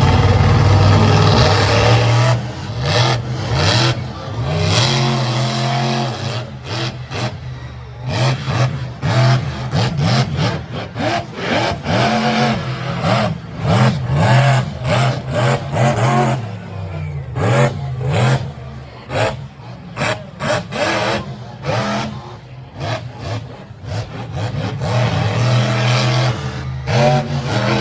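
Monster truck engine revving hard, the throttle opened and closed again and again so the pitch keeps rising and falling. It is loudest at full throttle at the start and again near the end.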